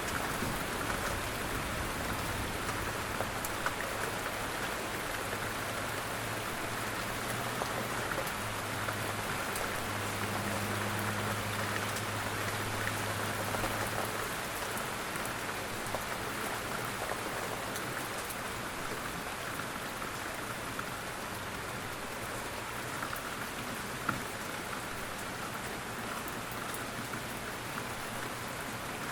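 Steady rain falling, an even hiss with individual drops ticking through it. A low hum underneath fades out about halfway through.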